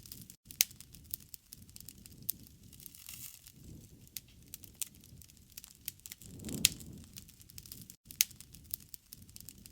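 Wood campfire crackling, with irregular sharp pops and a few louder snaps over a soft low rumble of the flames.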